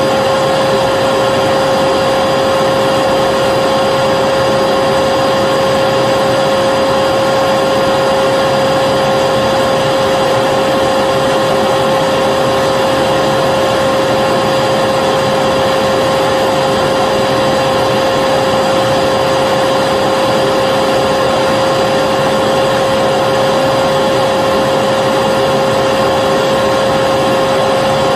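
Vacuum cleaner motor running steadily, a loud even whoosh of air with a constant whine, unchanging throughout.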